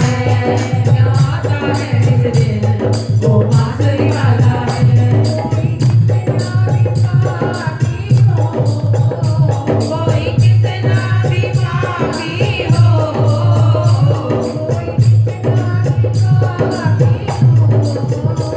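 Hindi devotional bhajan: a melodic singing voice over a steady rhythm of percussion with jingles.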